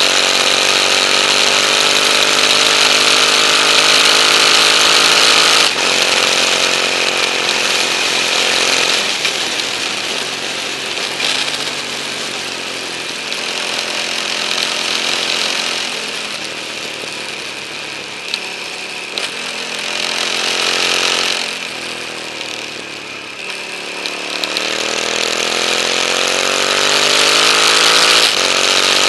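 KTM 950 Adventure's V-twin engine under way at road speed, with a steady rush of wind over the bike-mounted camera microphone. The engine note climbs at first, breaks briefly at a gear change about six seconds in, eases off and falls through the middle as the bike slows into curves, then climbs again as it accelerates near the end.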